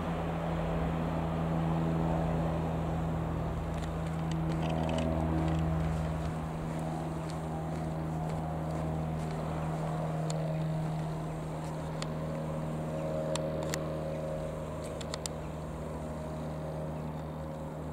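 Piper PA-28-180 Cherokee's four-cylinder Lycoming O-360 piston engine running at a steady speed, with a few light clicks late on.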